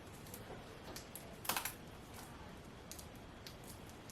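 Faint, scattered light clicks and rustles of hands handling cords while wrapping a Velcro cable tie around them, the loudest about one and a half seconds in.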